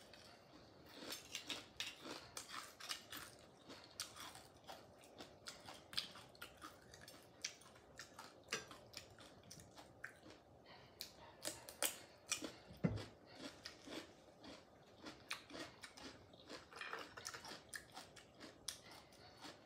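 Close-up chewing and wet mouth sounds of a person eating steamed oysters, with many small clicks and smacks, and one louder knock about 13 seconds in.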